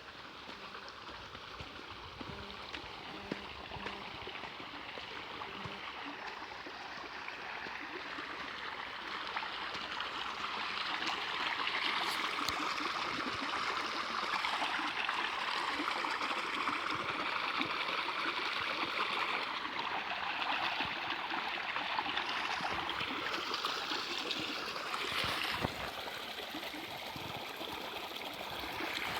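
Water of a small stream running, growing louder about ten seconds in and then steady.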